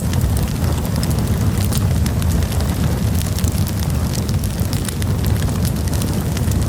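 Wood campfire burning: a steady low rumble of the flames with frequent small crackles and pops.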